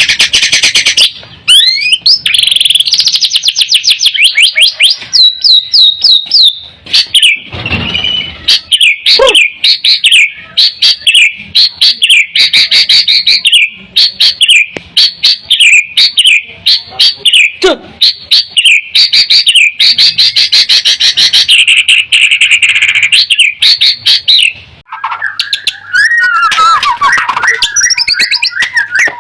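White-rumped shama (murai batu) singing loudly: long, nearly unbroken runs of fast repeated whistled notes. Near the end the song shifts to lower, more varied phrases.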